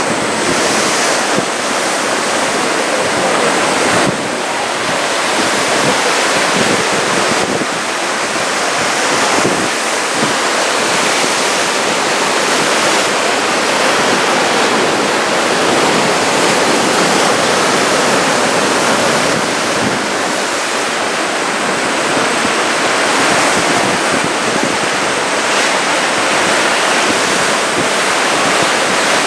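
Ocean surf: waves breaking and washing in a continuous, loud rush that swells and eases slowly.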